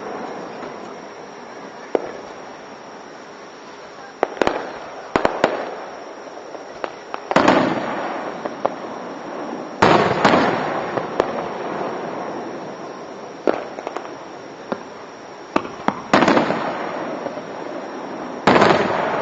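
Aerial fireworks shells bursting: a series of sharp booms, some single and some in quick pairs, the biggest ones a few seconds apart and each fading in a long rumbling tail.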